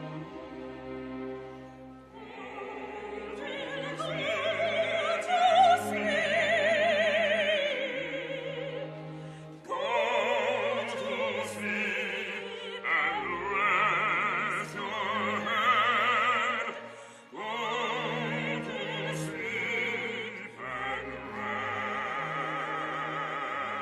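Operatic singing with strong vibrato over instrumental accompaniment, in sung phrases with short breaks between them.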